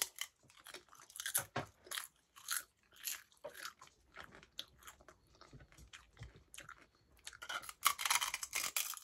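Crunching and chewing on a hard, rolled dried-seaweed snack close to the microphone: a string of short, crisp crunches, with a denser run of crunches from a fresh bite near the end.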